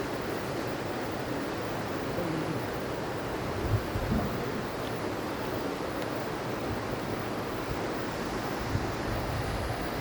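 Steady rush of a forest river, the Kunthipuzha, flowing over rocks, with a couple of low bumps.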